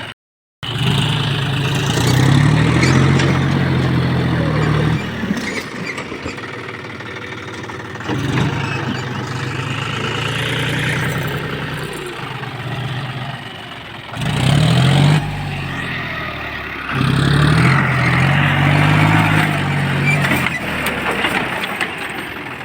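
Tractor diesel engine working hard in a low gear, revving up and easing off about four times.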